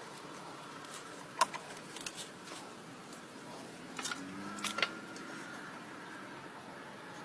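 A few sharp clicks and knocks over a steady background hiss: one about a second and a half in, a couple about two seconds in, and a cluster about four to five seconds in.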